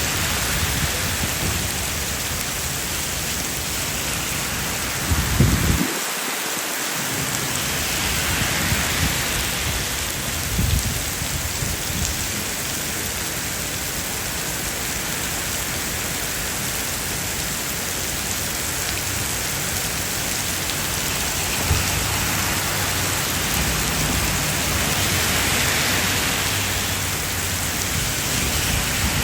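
Heavy rain falling steadily, a dense even hiss, with a few brief low thumps about five, ten and twenty-two seconds in.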